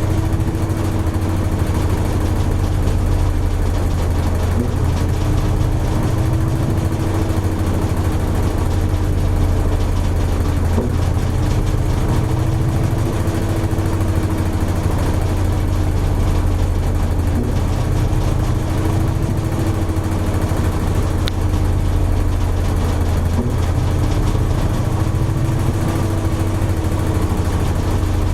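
Toshiba AW-42SEE4 fully automatic washing machine running steadily: a continuous low hum with a mid-pitched whine that wavers slowly up and down every few seconds.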